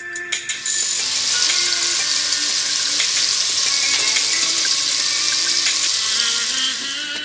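Chicken pieces sizzling as they fry in hot oil in a pot. The sizzle starts about half a second in, holds steady, and eases off near the end.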